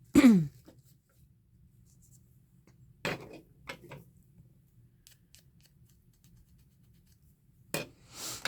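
Paper or card being cut at a crafting table: a few sharp snips or clicks about three seconds in, then a short rustle and more clicks near the end. It opens with a brief loud sound that falls in pitch.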